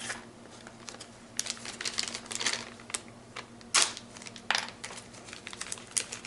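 Plastic parts packaging crinkling and rustling in irregular short bursts as it is handled and opened.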